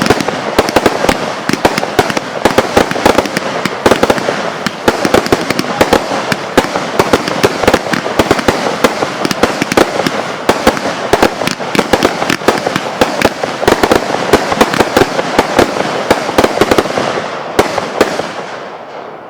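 Consumer fireworks going off in a dense, continuous run of rapid bangs and crackling pops, many a second, dying away near the end.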